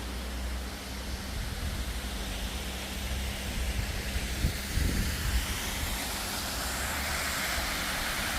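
A small waterfall's running water: a steady rushing hiss that grows louder in the second half, with a few low knocks about halfway through.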